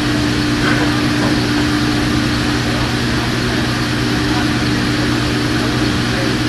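A steady mechanical drone: an even rushing noise with a low hum and a higher hum held at constant pitch, like a running fan or motor.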